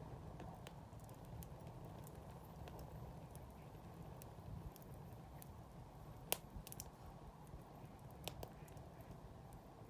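Wood campfire burning with a faint steady rush and scattered crackles and sharp pops, the loudest pop about six seconds in.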